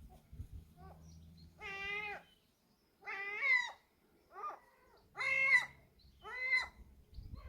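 Gulls on a rooftop calling: five drawn-out, cat-like calls of about half a second each, spaced roughly a second apart.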